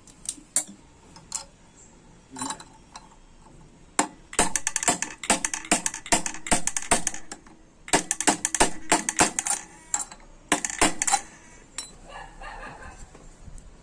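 Rapid runs of sharp clicking and rattling, three bursts of a few seconds each with single clicks between, as small metal parts and hand tools are worked on during the moped's restoration.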